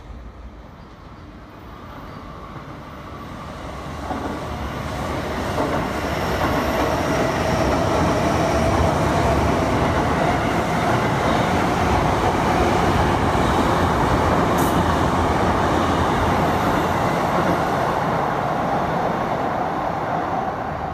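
Sotetsu electric commuter train running along the station platform. Its wheel-on-rail noise and a steady whine grow louder over the first several seconds, hold steady, then ease off slightly near the end.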